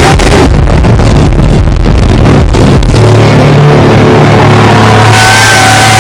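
Loud live metalcore band, heavily distorted as recorded from the front row, with drums pounding under guitars. About three seconds in the drumming stops and a low distorted chord is held, ringing on.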